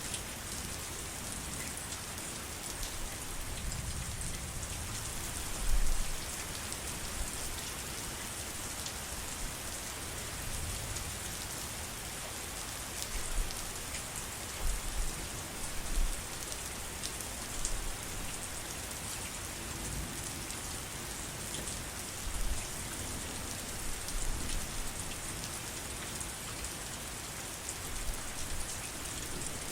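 Steady heavy rain falling with a continuous hiss, broken by occasional brief low thuds, the loudest about six seconds in.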